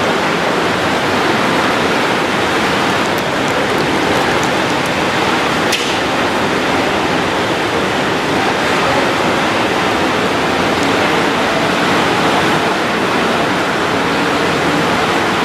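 Hurricane-force wind and driving rain making a loud, steady rush, with a few faint ticks about halfway through.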